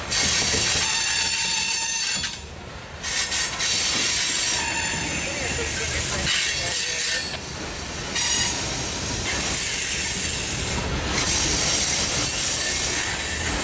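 Loaded coal hopper cars of a freight train rolling past, the steel wheels on the rails making a steady rushing noise with a few brief quieter dips. A faint high squeal from the wheels on the curve is heard in the first few seconds.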